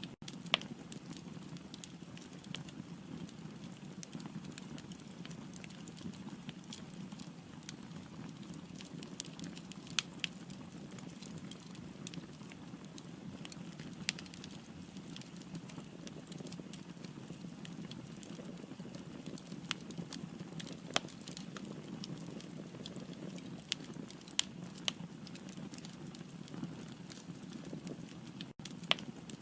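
Firewood burning in a fireplace: a steady low rush of flame with sharp crackles and pops scattered at irregular intervals.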